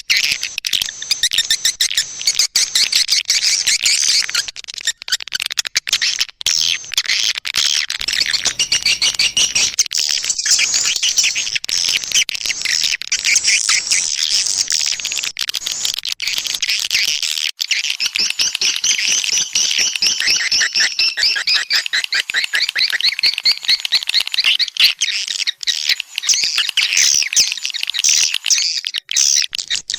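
Swiftlet lure calls: a dense, continuous stream of rapid, high twittering chirps from many birds. This is the call-and-response sound played to draw swiftlets into a nesting house.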